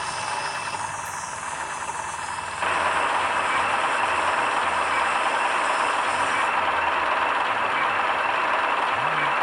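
Excavator's diesel engine running, with a steady, noisy drone that jumps sharply louder about two and a half seconds in and stays there.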